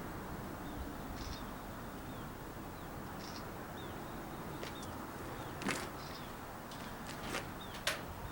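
Outdoor background hiss with faint, short high chirps repeating about every two seconds, like a bird calling, and a few sharp clicks about two thirds of the way in and near the end.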